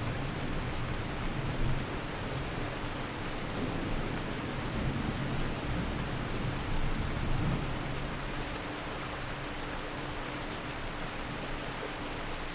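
Steady rain falling, with a low thunder rumble underneath that dies away about two-thirds of the way through.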